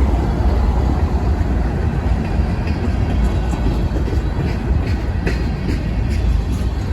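CSX manifest freight train rolling past close by: a loud, steady low rumble of the train, with sharp wheel clicks over the rail joined in from about two and a half seconds in.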